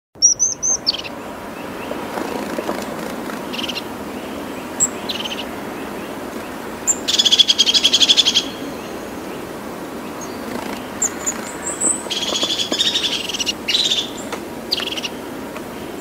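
Birds calling: scattered short high chirps, with two louder bursts of rapid, chattering calls, one about halfway through and another a few seconds later, over a steady background hiss.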